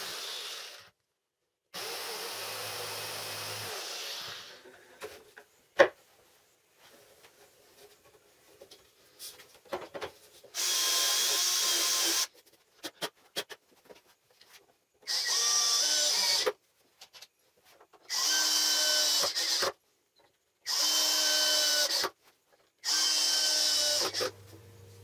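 Handheld power drill run in five short bursts of about a second and a half each, its motor whining at a steady pitch, with quiet pauses between. Before that, a steady motor noise stops twice, and a sharp click comes about six seconds in.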